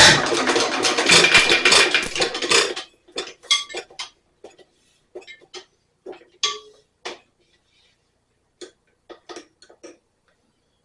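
Loud metallic clatter for nearly three seconds, then a scattered run of separate clinks and taps of metal on metal, from hands and tools working on a hit-and-miss engine.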